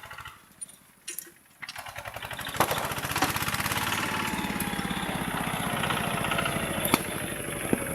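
Tractor engine running with a rapid, even chugging. The sound falls almost silent for about a second near the start, then the engine comes back and runs steadily.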